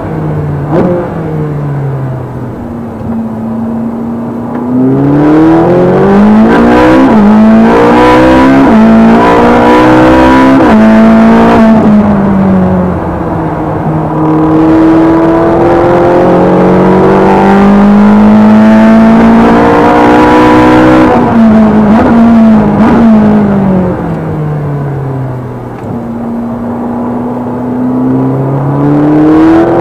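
Ferrari 458 Speciale's V8 through its raspy two-outlet exhaust, driven hard on track: it revs up through several quick upshifts, each a sudden drop in pitch, falls away under braking with short throttle blips on the downshifts, holds high revs, and pulls up through the gears again near the end.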